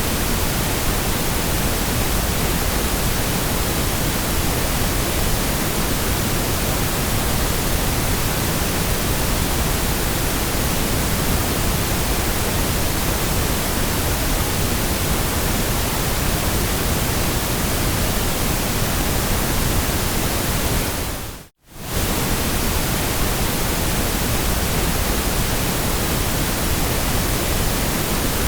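Steady ambient white noise, a constant even hiss. About three-quarters of the way through it fades out briefly and comes straight back.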